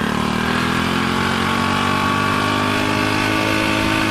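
Motorcycle engine running, with its loose spark plug just tightened; its pitch climbs gradually in the first second or so, then holds steady.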